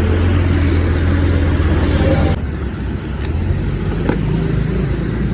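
Truck engine running steadily with a deep hum. The sound changes abruptly about two seconds in, and a few short clicks follow in the second half.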